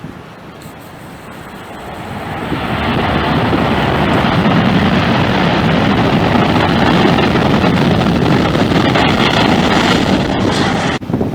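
Jet airliner's engines passing close by: a loud rushing roar swells up about two seconds in, holds steady, and drops off sharply near the end.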